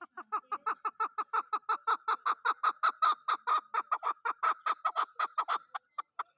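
Chukar partridge calling: a fast run of short repeated notes, about seven a second, growing louder through the middle, then slowing and fading out near the end.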